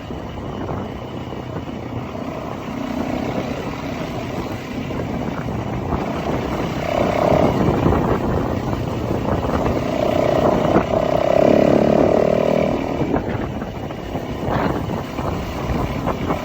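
Motorbike engine running under way, its pitch and loudness rising and falling, loudest around the middle.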